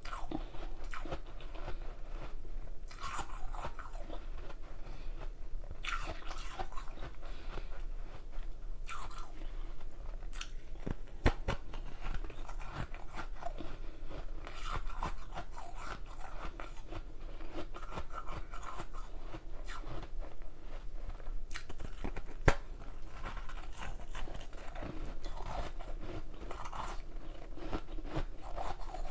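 A person biting into and chewing hard ice close to the microphone: continuous irregular crunching and crackling, with two louder sharp snaps standing out, one about a third of the way through and one about three-quarters of the way through.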